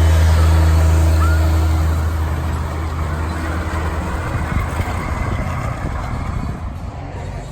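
A car engine running with a deep, steady low rumble, loudest for the first two seconds and then fading into a fainter noisy rush.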